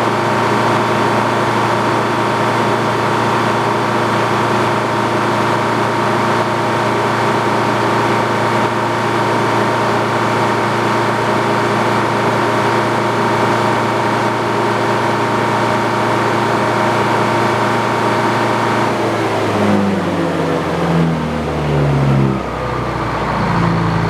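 Antique Frick sawmill running, with the steady hum of its power unit and a high steady ringing from the spinning saw. About nineteen seconds in the ringing stops and the pitch falls in steps, then settles lower near the end.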